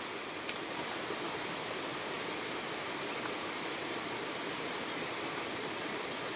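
Steady rushing of fast-flowing water, a stream running high after heavy rain, with a faint tick about half a second in.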